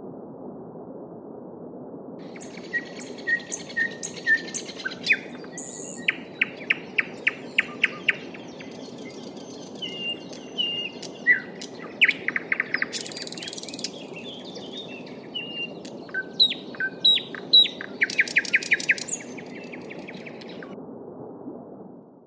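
Small songbirds singing, with strings of repeated whistled notes and rapid trills, over the steady babble of a forest stream; the birdsong stops about a second before the end.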